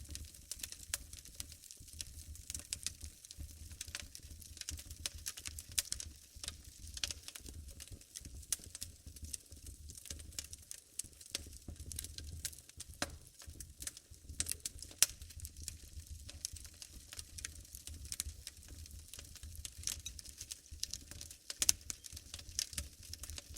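Wood fire burning in a fireplace: irregular crackling pops and snaps over a low rumble of the flames, with a couple of sharper pops standing out.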